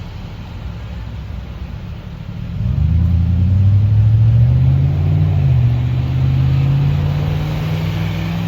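A motor vehicle's engine close by. It gets much louder about two and a half seconds in as a low hum that rises in pitch, dips briefly, then holds steady over a low rumble.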